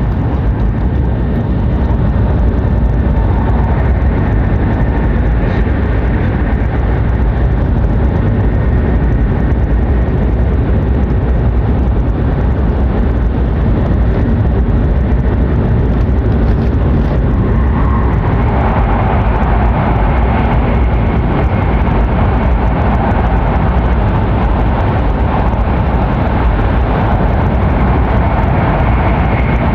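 Cabin noise of an E7/W7-series Hokuriku Shinkansen train running at speed: a steady low rumble of wheels on rail with airflow hiss, which grows louder and hissier about two-thirds of the way through.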